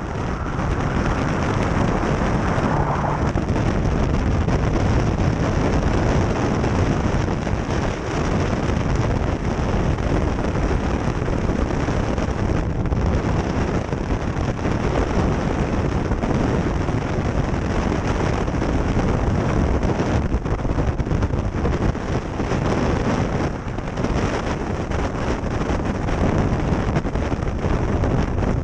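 Wind buffeting the microphone on a moving motorcycle, with the Kawasaki H2 SX SE running underneath it. The noise is loud and steady throughout.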